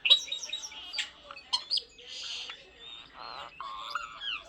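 Pet starling vocalising: a rapid jumble of whistles, clicks and harsh squawks, with short rising and falling whistles toward the end.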